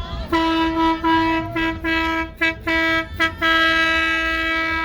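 A vehicle horn honking in a series of blasts at one steady pitch. It starts with a long honk broken by brief gaps, then gives a few quick toots about two and a half seconds in, then one more long blast.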